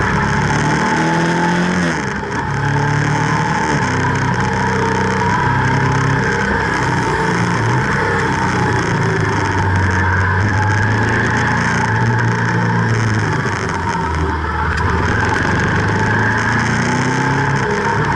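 Ducati SS900's air-cooled L-twin engine heard on board, its note rising and falling with throttle and gear changes through a run of bends, easing off briefly about two seconds in. A steady rush of wind runs underneath.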